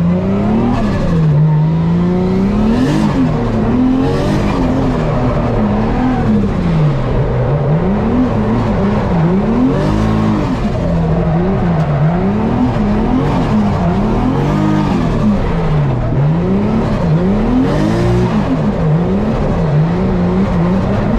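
Toyota GT86's engine heard from inside the cabin, its revs climbing and dropping over and over, roughly every one to two seconds, as the throttle is worked on a wet track.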